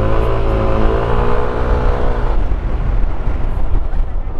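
Yamaha NMAX scooter's single-cylinder engine, fitted with a 63.5 mm SCK Racing bore-up block, revving up under acceleration with steadily rising pitch, then easing off a little past two seconds in, leaving a low rumble.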